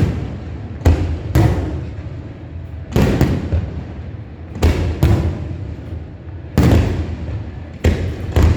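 Aerial fireworks shells bursting: a series of sharp booms, often two in quick succession, coming every second or two, each trailing off in a rumbling echo.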